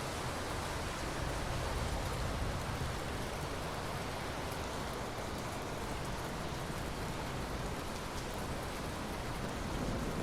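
Steady rain falling, an even hiss with no break or sudden crack.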